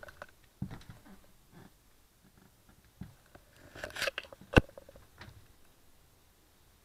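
Scattered knocks, scrapes and crunching of demolition debris being handled in a small room, with one sharp knock a little over halfway through.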